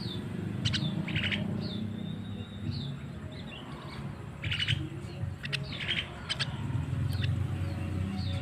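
Javan myna (jalak kebo) calling: short high whistled notes that drop in pitch, repeated every half-second or so, broken by three harsh raspy calls about one, four and a half and six seconds in. A steady low rumble runs underneath.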